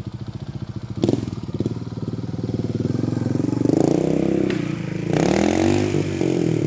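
Trials motorcycle engine running at low revs, with a sharp clack about a second in, then revving up and falling back twice.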